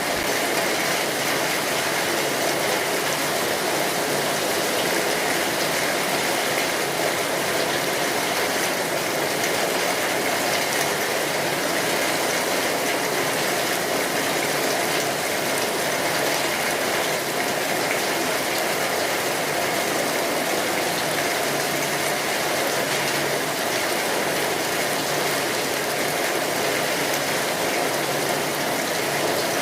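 Steady rain falling, an even dense patter of drops with no lulls.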